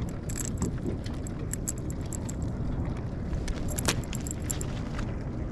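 Irregular light metallic clicking and jingling from fishing tackle as the baited rig is sent back down to the bottom, over a steady low rumble of wind and water.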